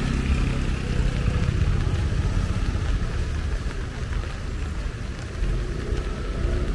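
Road traffic: a steady low rumble of vehicle engines with a hiss of noise above it.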